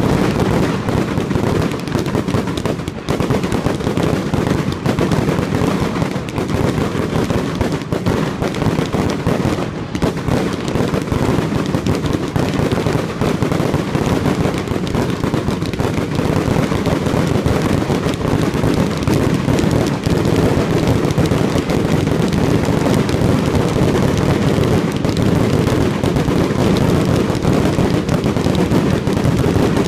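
Fireworks display: aerial shells bursting in a dense, unbroken barrage of rapid bangs, loud throughout.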